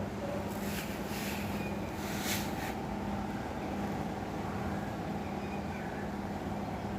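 Steady low background rumble with a constant hum, and a few brief soft rustles in the first three seconds.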